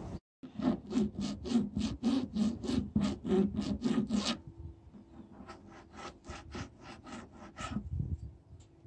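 Hand file rasping on a corner of a portable fridge in quick, even back-and-forth strokes, about four a second. The corner is being taken down so the lid opens more easily. The strokes are loud for about four seconds, then lighter.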